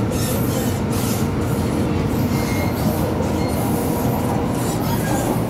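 MTR M-Train electric multiple unit running at speed: a steady rumble of wheels on rail and traction equipment, with faint steady tones above it.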